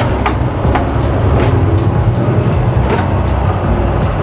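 Semi-truck's diesel engine running, heard inside the cab as a steady low rumble, with a few sharp clicks or rattles.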